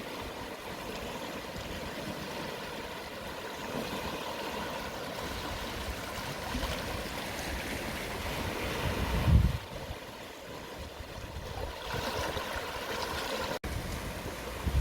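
Calm sea waves washing gently onto a beach at low tide, a steady wash that swells and eases. About nine seconds in, a short low rumble of wind buffets the microphone, and the sound cuts out for an instant near the end.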